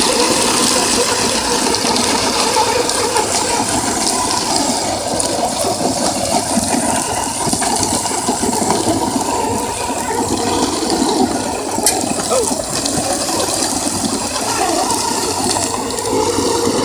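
Electric RC trucks driving and straining against each other on loose dirt: a steady rushing hiss of tyres and drivetrain.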